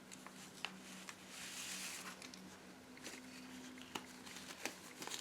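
Paper pages of a handmade junk journal being turned and handled: a soft rustle and slide of paper about a second in, with scattered light taps and clicks. A faint steady hum runs underneath.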